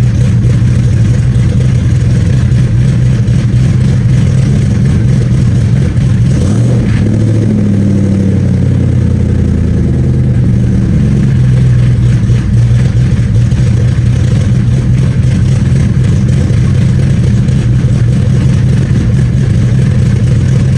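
Ford Coyote 5.0 L V8 idling steadily during its cold-start warm-up. The idle note wavers and shifts for a few seconds about seven seconds in, then settles again.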